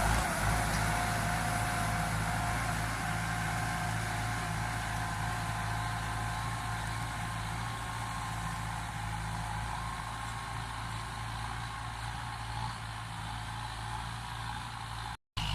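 Kubota M9540 tractor's four-cylinder diesel engine running steadily, with an even low hum and a faint whine over it. The sound drops out for a moment near the end.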